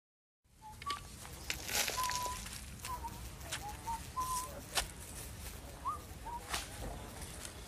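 Outdoor ambience of birds calling in short whistled notes, some held on one pitch and some rising. A few sharp clicks and a low rumble of wind on the microphone run under them.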